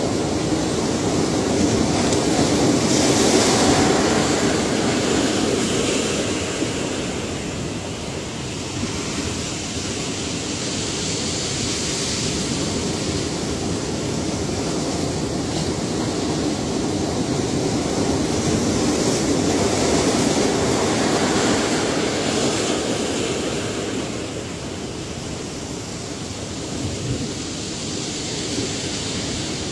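Ocean waves breaking and washing in, a steady rush of surf that swells and eases slowly, with louder crests a few seconds in and again about two-thirds of the way through.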